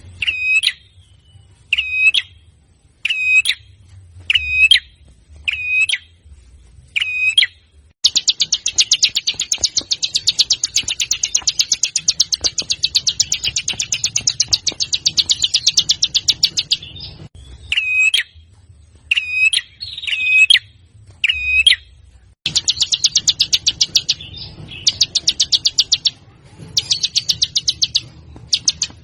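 Recorded songbird song used as masteran training audio. Sharp single calls, each dropping to a hooked note, repeat about every second and a quarter. They alternate with long, rapid, rattling trills: one lasts about nine seconds, then after more single calls come shorter trill bursts near the end.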